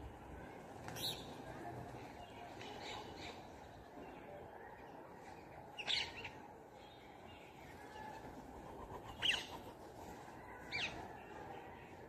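Five short, high bird calls a few seconds apart, the two near the end the loudest, over a faint steady background hush.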